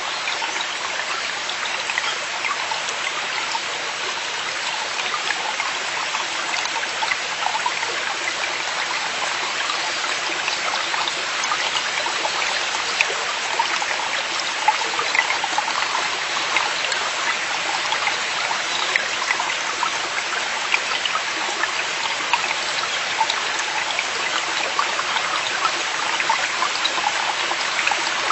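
Forest valley stream flowing steadily, with a continuous rush of water and many small splashes and trickles through it.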